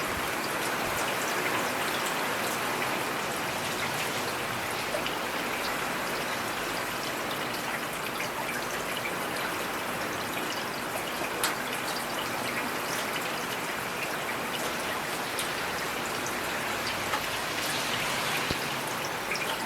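Heavy rain falling steadily, a constant hiss dotted with sharp ticks of single drops striking nearby, one louder tick about halfway through.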